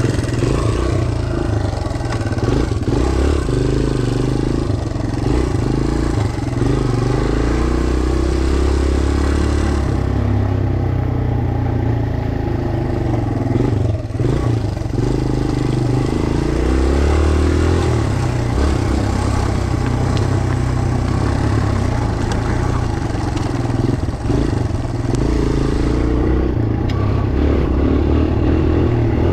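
Small four-stroke dirt bike engine being ridden hard round a motocross track, revving up and dropping back again and again as the rider works the throttle and gears.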